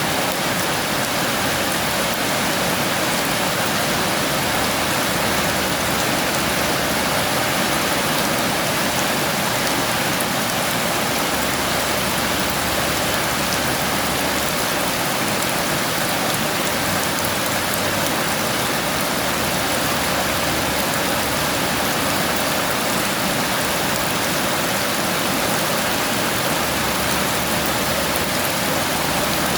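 Steady heavy rain pouring down, an even hiss of falling water.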